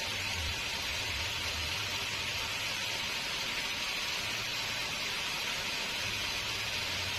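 Steady machine noise: a constant hiss with a low rumble that comes and goes, from sawmill machinery running.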